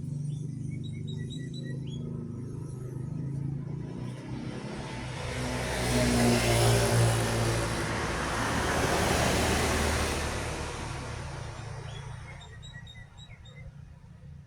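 A heavy truck drives past: engine and tyre noise build to a peak about halfway through, then fade away. Birds chirp near the start and again near the end.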